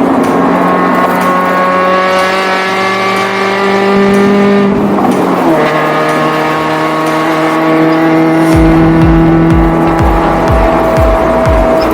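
Toyota 86 / Subaru BRZ flat-four engine breathing through an aftermarket Dynamic EAGLE muffler under acceleration: the exhaust note climbs steadily in pitch, drops at an upshift about five seconds in, then climbs again. A music beat with thumping bass comes in past the middle.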